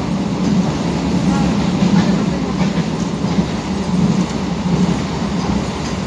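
Local train running, heard from inside the coach: the steady noise of the wheels on the rails and the carriage moving.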